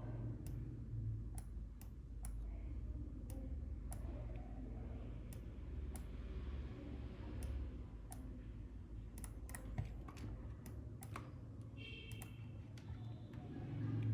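Irregular clicks of a computer mouse and keyboard, a dozen or so scattered through, over a steady low hum.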